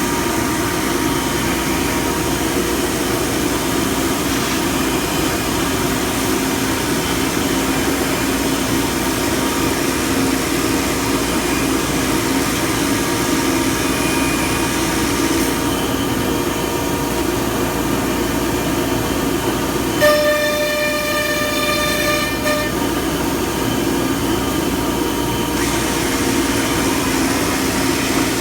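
Weeke BP12 CNC router running, a loud steady machine noise with a low hum. About two-thirds of the way through, a steady high-pitched whine of several tones sounds for about two and a half seconds.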